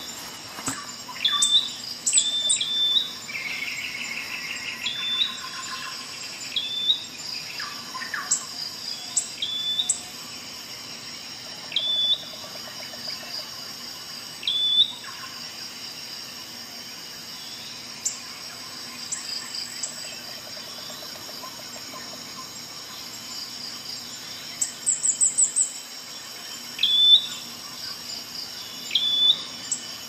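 Birds chirping: short high calls repeated every second or two, with a few quick trills.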